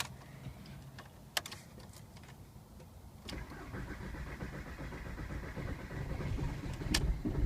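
Starter cranking a cold 1.9 TDI PD (BEW) diesel, with a click about a second in, then about four seconds of rhythmic cranking that does not catch. It is the hard cold start that the owner later traced to a worn camshaft.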